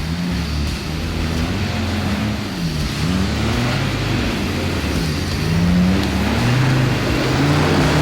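4x4 off-road truck engine revving up and down repeatedly under load, its pitch rising and falling every second or two.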